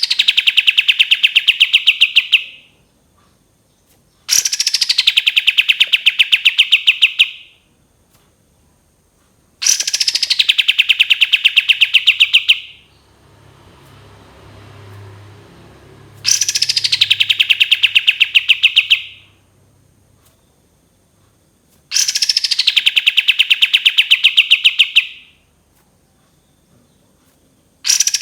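Kapas tembak songbird singing its long rapid 'tembakan' phrases: five bursts of about three seconds each, every one a fast run of about ten notes a second that starts high and drops to a steady pitch, repeated every five or six seconds.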